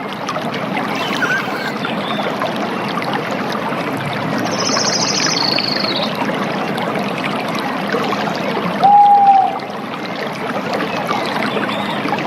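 Running water of a stream or cascade, a steady rush. A bird's fast trill sounds about halfway through, and a short clear whistle, the loudest sound, comes near the end.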